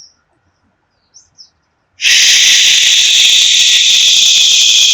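A few faint bird chirps, then about two seconds in a loud, long hissing 'shhh' exhale starts and holds: the liver healing sound of Taoist qigong.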